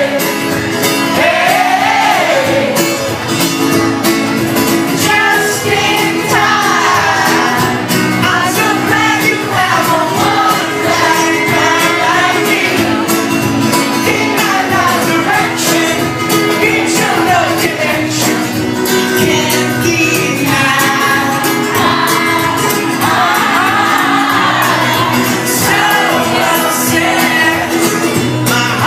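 Live pop band playing a song, with lead vocals over the band.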